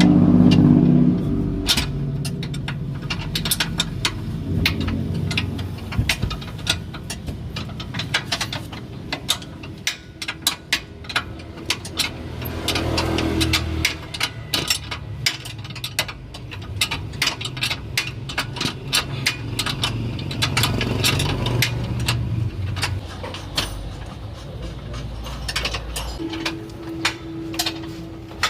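Motor vehicles running and passing, swelling and fading a few times, with frequent short metallic clicks and clinks over them.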